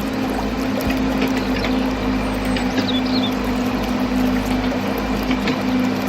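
Small motor humming steadily at an even pitch over a continuous hiss, with a couple of short high chirps about three seconds in.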